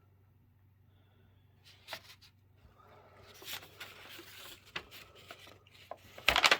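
Handling noise: rustling and small clicks starting about two seconds in, with a loud bump near the end.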